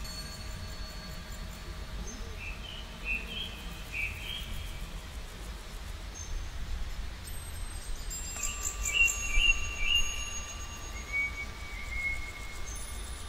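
Birds singing outdoors: short chirping phrases about two seconds in and again about eight to ten seconds in, with thin high whistles, over a steady low rumble.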